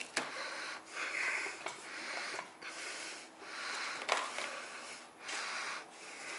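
Rhythmic rubbing strokes from hand-working a metal part, a stroke a little under every second, with a few sharp clicks.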